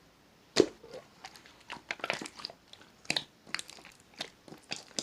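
Slime being played with by hand, giving an irregular run of sharp crackles and pops, the loudest about half a second in.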